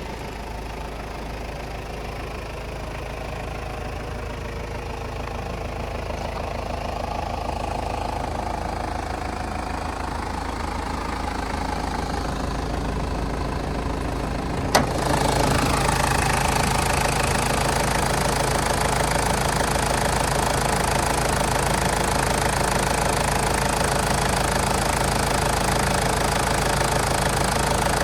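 Toyota Land Cruiser Prado KZJ78W's 3.0-litre turbodiesel engine idling with a steady diesel clatter. About halfway there is a sharp click, after which the engine sound is louder and brighter.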